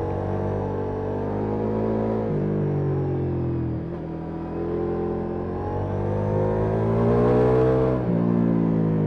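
Ducati Multistrada V4S's V4 engine through an Akrapovic exhaust, pulling hard on the road. Its pitch climbs under throttle and drops back sharply three times, about two, four and eight seconds in, as with gear changes, loudest just before the last drop.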